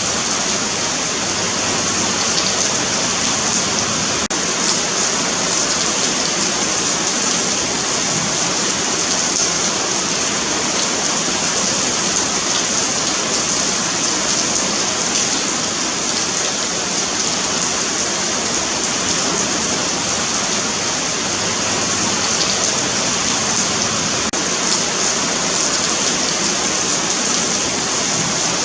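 Steady rain falling on a pavement, an even hiss of drops on hard ground with no break or change.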